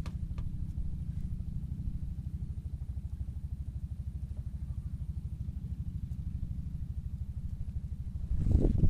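A small engine running steadily with a fast, even low thrum, and a few louder thumps near the end.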